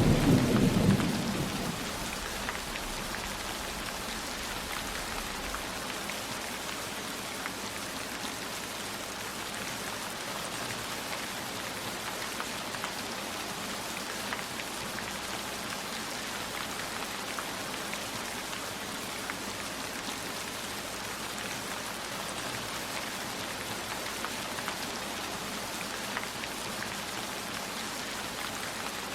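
A low rumble of thunder dies away in the first second or two, leaving steady heavy rain with scattered individual drops ticking.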